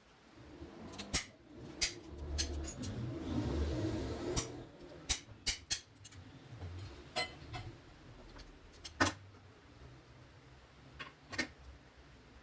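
Hand tools and small metal parts clinking and knocking during bench work on an air-suspension compressor, with a louder scraping stretch about two to four seconds in.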